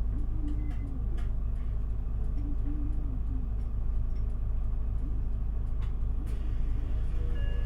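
Interior sound of a QPG-LV234L3 (Isuzu Erga) city bus under way: a steady low diesel engine and road rumble, with a faint engine or drivetrain tone that shifts a little in pitch and scattered light clicks.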